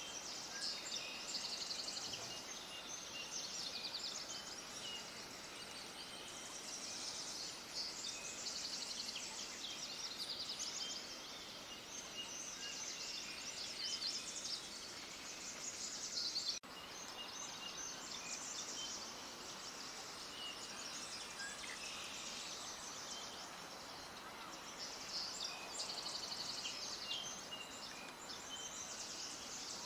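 Many small birds chirping at once in a dense, continuous chorus of high chirps and trills. About halfway through the sound cuts out for an instant.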